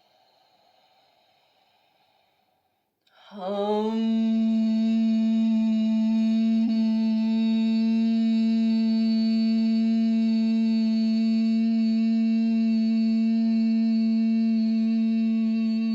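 A woman humming one long, steady note on a single pitch, as a held heart-and-throat humming exercise. The hum begins about three seconds in with a short slide up to pitch, after a near-quiet pause.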